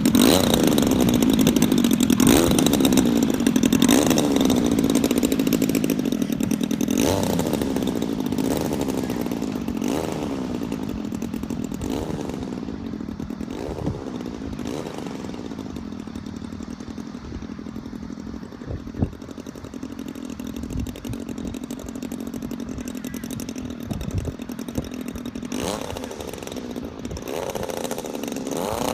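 DLA-64 i2 twin-cylinder inline two-stroke gasoline engine on a large-scale RC model plane, running steadily and spinning a 23x10 propeller. It fades gradually, then grows louder again near the end with a wavering pitch.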